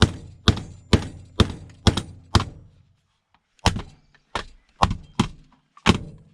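Slate hammer striking repeatedly, bashing at a piece of broken electronics to break it open for scrap. There are six blows about half a second apart, a brief pause, then five more.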